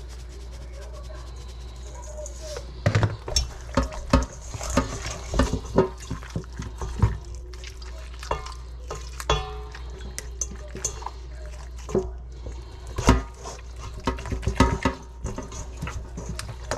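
Kitchen handling sounds: dishes and pans clattering in a string of irregular knocks beginning about three seconds in, with some water or liquid sounds, over a steady low hum.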